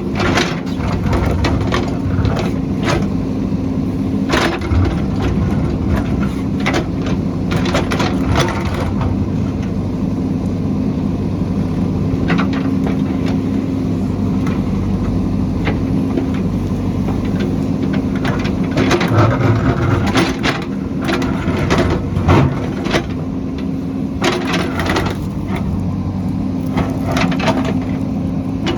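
A heavy construction machine's engine running steadily, with many sharp cracks and knocks of material being broken or struck, coming in clusters.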